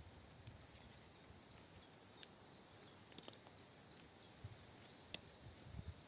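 Faint run of short, high chirps from a small bird, repeated every few tenths of a second, with a few sharp clicks over a quiet background hiss.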